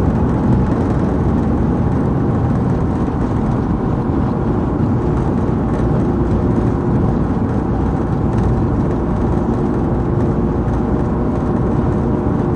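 Steady road and engine noise of a police patrol car on the move, with a faint steady hum coming in about four seconds in.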